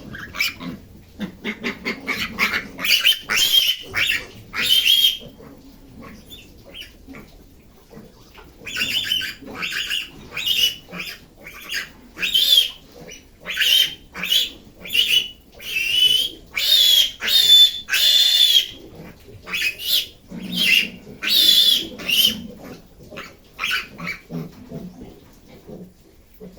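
Piglet squealing in a long run of short, shrill, high-pitched squeals, about one or two a second, with a brief lull a few seconds in.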